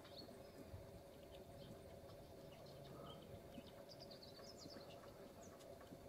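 Near silence with faint, high bird chirps scattered throughout, and a quick run of chirps about four seconds in, over a low steady hum.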